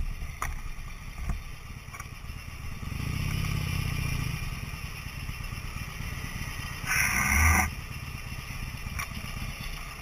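Vehicle driving, with a steady low engine and road rumble that swells about three seconds in. A loud, short, higher-pitched burst comes about seven seconds in and lasts under a second.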